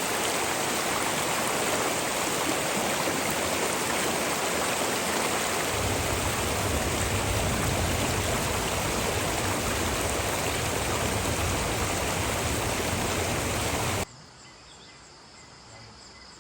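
Waterfall's rushing water, a steady loud roar that gets a deeper rumble about six seconds in. It cuts off abruptly near the end, leaving faint insects chirping in a steady repeating pattern.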